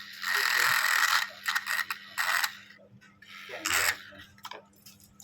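Several bursts of scraping with clicks, from hand tools working on a phone during a screen replacement, the longest about a second long near the start.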